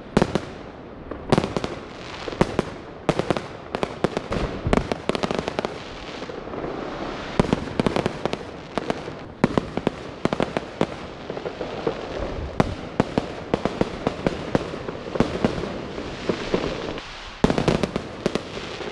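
Fireworks going off: an irregular, continual series of sharp bangs and crackles, some in quick clusters.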